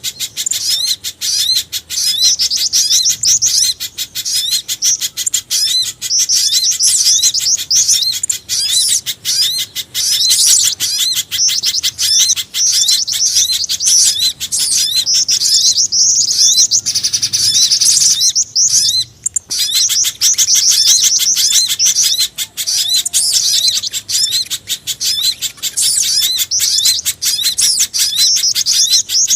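Bird-lure recording of mixed spiderhunter and jingjing batu (flycatcher-shrike) calls: a dense, fast stream of high, sharp chirps, many per second, pausing briefly twice past the middle. It is made to draw small birds in for trapping.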